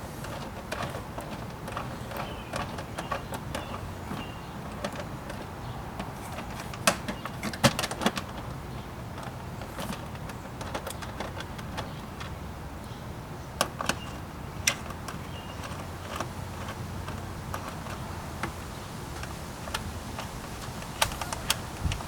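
Hand tool working the bolts of a car's engine air box cover: scattered sharp clicks and knocks of metal on plastic as the bolts are tightened down, over a steady low background hum.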